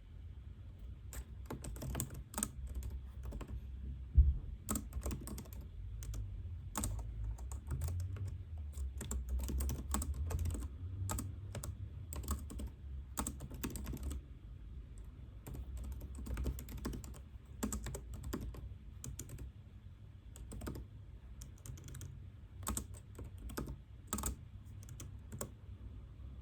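Typing on a computer keyboard: irregular runs of key clicks with short pauses between them, and one single louder thump about four seconds in, over a steady low hum.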